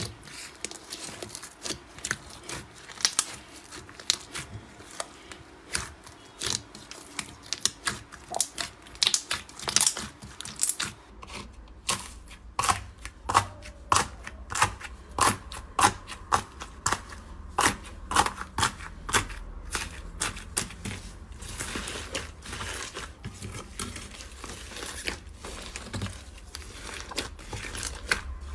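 Crunchy slime-video material being squeezed and crushed, giving a constant run of irregular crackles and sharp clicks, more spaced and louder from about twelve seconds in.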